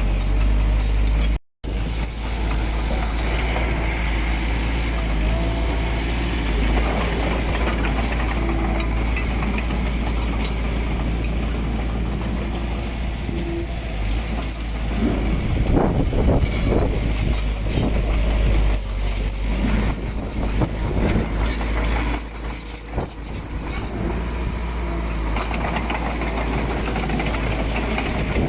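Diesel engine of heavy earthmoving machinery running steadily at work, with stretches of clanking and rattling partway through. The sound cuts out briefly about a second and a half in.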